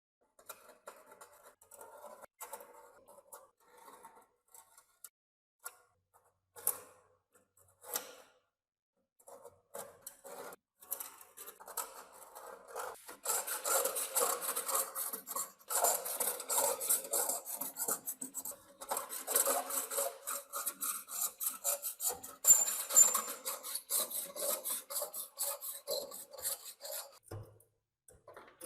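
Hand scraping at a rusty metal part in quick rasping strokes. They are sparse and faint at first with a couple of clicks, then fast and louder from about halfway through.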